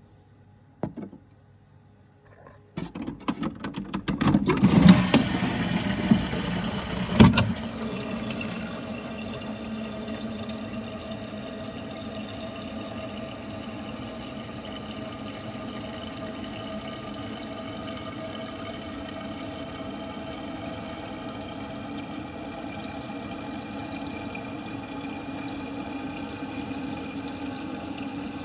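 Rak toilet cistern flushed: a click, then a loud rush of water for about five seconds with a sharp knock partway through, then the fill valve refilling the cistern with a steady hiss of running water.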